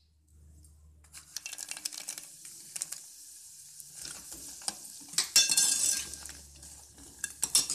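Makhana (puffed lotus seeds) sizzling and crackling in hot ghee in an aluminium pot, stirred with a steel spoon that clicks against the pot. The sizzle starts about a second in and is loudest a little past the middle.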